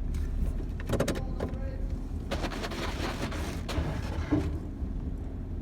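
Inside a car entering a tunnel car wash: a steady low engine hum, a few clicks about a second in, then a hiss for about a second and a half.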